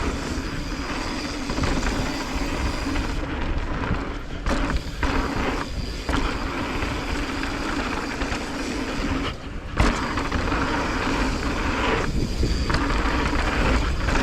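Riding noise from an e-mountain bike descending a dirt trail: wind rushing over the microphone, tyres rolling on dirt and the bike rattling, briefly dropping twice.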